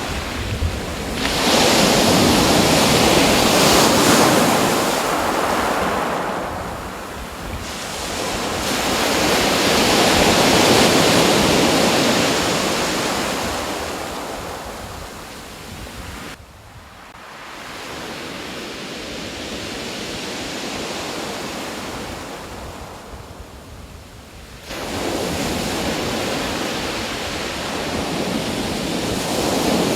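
Sea waves surging and washing back as a wide rush of surf, rising and falling in slow swells several seconds long. It jumps up abruptly about 25 seconds in.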